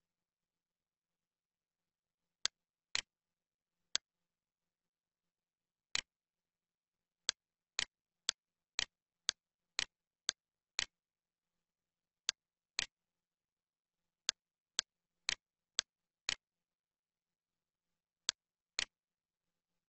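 Computer mouse button clicking: about twenty short, sharp clicks with silence between, many coming in runs about half a second apart.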